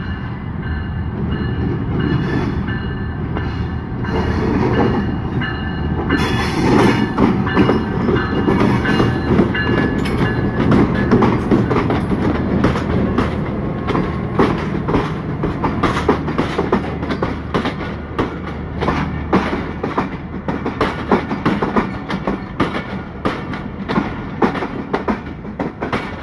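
GE U20 diesel-electric locomotive running as it approaches and passes close by about six seconds in. The train's passenger coaches then roll past with a steady clatter of wheels over the rail joints.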